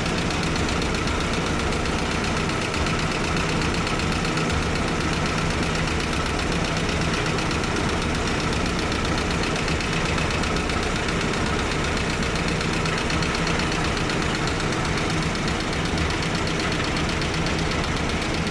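GAZ-69's four-cylinder petrol engine idling steadily with an even, knocking beat. The owner wonders whether it may be slightly misfiring on one cylinder.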